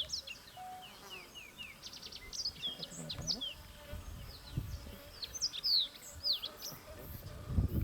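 Birds chirping and calling in the bush, many short falling whistles and chirps, with a few soft low thumps midway.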